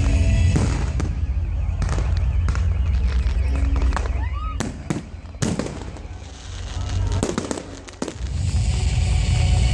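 Fireworks going off: a string of sharp bangs and crackles, several coming close together, with festival music playing under them at the start and again near the end.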